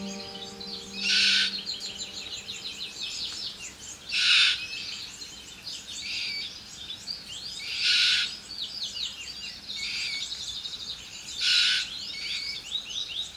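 Forest red-tailed black cockatoos calling: four loud, harsh calls, spaced about three and a half seconds apart, over steady high chirping from smaller birds.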